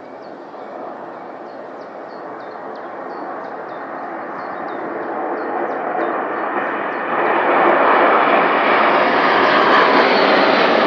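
Military aircraft flying in for a parade flypast: a broad engine rush that grows steadily louder as they approach, with a jump in loudness about seven seconds in, after which it stays loud.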